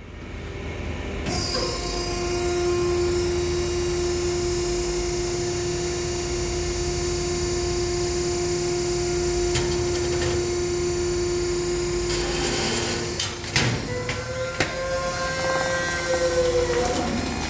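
Cardboard baler's hydraulic press running with a steady mechanical whine. About thirteen seconds in the whine shifts higher and wavers, with several sharp cracks and knocks.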